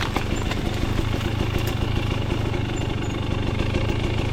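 2025 KTM 300 XC two-stroke single-cylinder dirt bike engine idling steadily.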